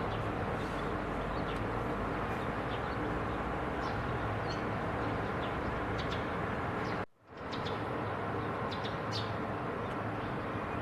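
Small songbirds giving short, high chirps at scattered intervals over a steady background noise. The sound drops out abruptly for about half a second around seven seconds in.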